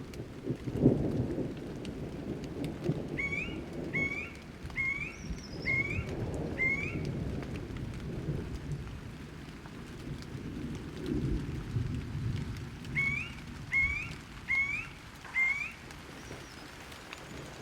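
Thunderstorm: rolling thunder rumbling in several low swells over steady rain. A bird calls a series of short rising notes, five in a row a few seconds in and four more later.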